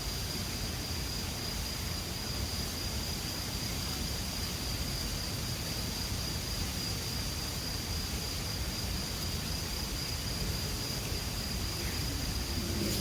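Steady rush of a mountain river with a continuous high-pitched insect trill, like a cricket, running over it.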